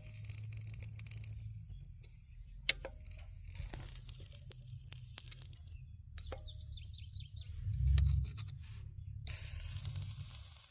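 Sizzling hiss from an overheated front wheel hub whose brake has been dragging hard, setting in loudly near the end. Before it there are scattered light clicks over a low rumble, and a thump about eight seconds in.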